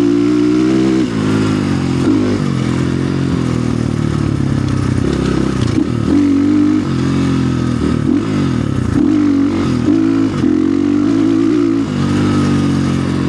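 Orion RXB250XL dirt bike engine under riding load, its pitch rising and falling again and again as the throttle is opened and rolled off, with a few short dips between pulls.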